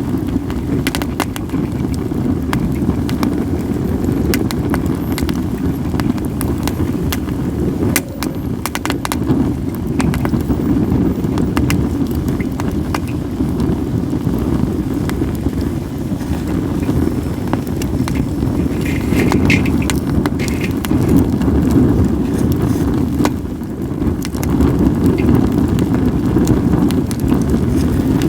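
Campfire of acacia and mixed firewood burning, with scattered sharp crackles and pops. A steady low rumble of wind on the microphone runs under it and is the loudest part.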